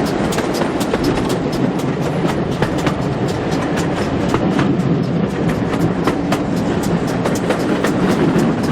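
Steam-hauled passenger train running along the line: a steady rumble from the carriage wheels on the rails, with many sharp clicks and knocks, several a second.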